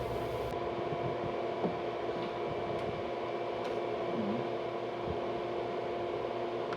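Steady electrical hum with a fan-like whirr from the newly switched-on power supply that will feed the car stereo, with a few faint clicks.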